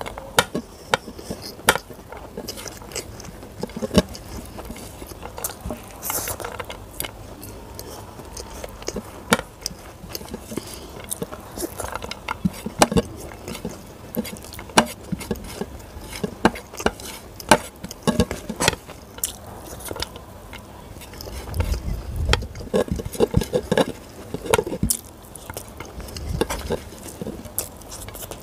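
Close-miked eating by hand: chewing with many sharp mouth clicks, and fingers scraping yellow rice across a ceramic plate. A few low thumps come about three quarters of the way through.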